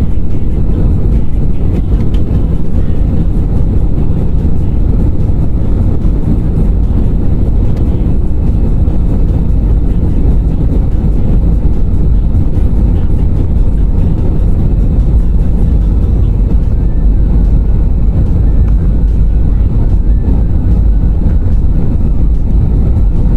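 Jet airliner cabin noise during takeoff: a loud, steady low rumble from the engines and airframe, heard from inside the cabin.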